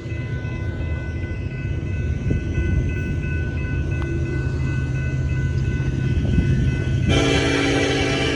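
A train passing with a steady low rumble. About seven seconds in, its horn sounds loudly and holds.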